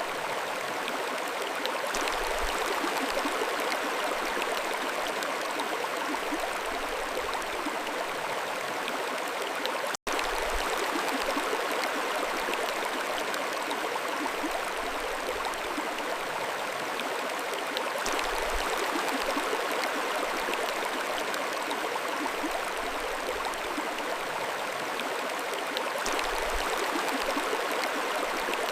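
Mountain stream flowing, a steady even rush of water, with a momentary dropout about ten seconds in.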